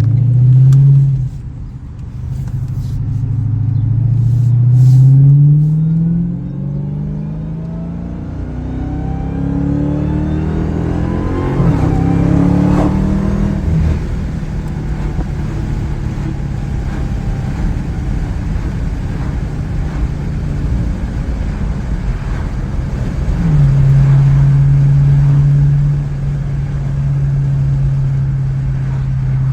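A car accelerating, its engine note rising in pitch several times and falling back, with a fainter high whine rising and falling along with it. For the last few seconds it holds a steady note.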